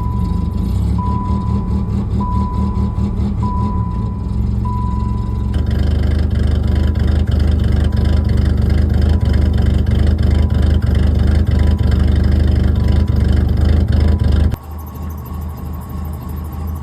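Cold start of a 1988 Chrysler LeBaron's 2.5-litre four-cylinder engine, with the car's warning chime beeping steadily a bit more than once a second. About five seconds in, the engine sound grows fuller and deeper and keeps running; the owner puts its rich running down to a MAP or coolant temperature sensor fault. The sound cuts off abruptly near the end.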